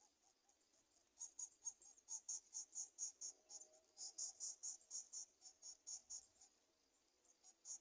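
Insect chirping: a quick, even train of faint high-pitched pulses, about four a second, starting about a second in, breaking off briefly and starting again near the end.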